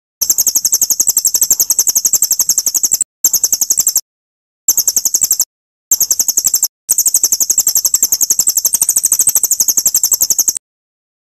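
Songbird trilling: a very high-pitched, rapid string of repeated notes, about seven a second, in five runs broken by short pauses, stopping abruptly near the end. It is masteran song for training murai batu (white-rumped shama), of the cililin-style trill type.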